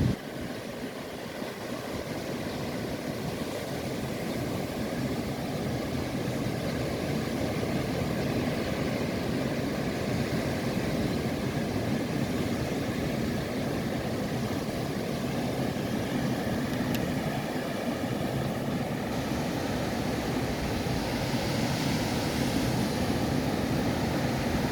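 A baler running with a steady mechanical drone.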